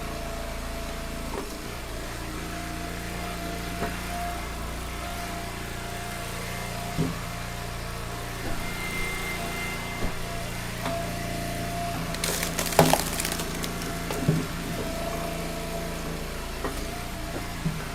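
Log splitter's small engine running steadily, with firewood rounds cracking and splitting a few times; the loudest crack comes about 13 seconds in.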